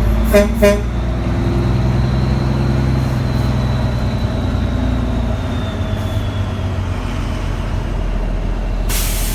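Dump truck's horn gives two short toots in quick succession over the steady drone of its diesel engine; a short hiss near the end.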